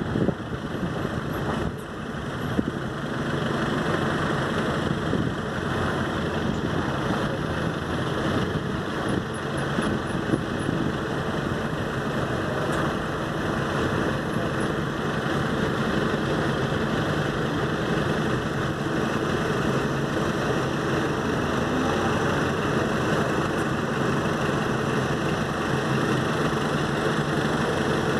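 A vehicle engine running steadily, with a faint even low hum.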